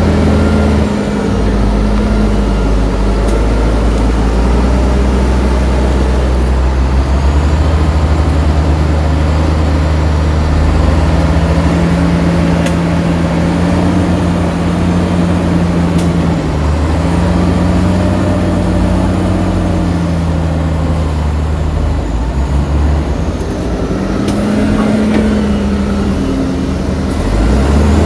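Heavy diesel engine of an earthmoving machine running under load, its pitch rising and falling several times as it revs up and eases off.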